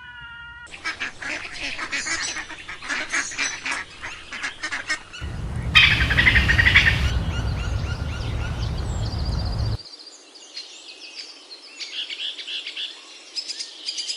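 Birds calling in three short cuts: a flock's rapid chattering calls, then louder honking calls over a steady low rumble, then scattered chirps.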